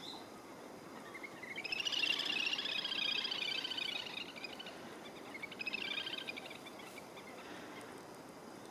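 A small songbird's rapid, twittering chatter in two spells: a longer one of about three seconds starting just over a second in, then a shorter one around six seconds, over a steady outdoor hiss.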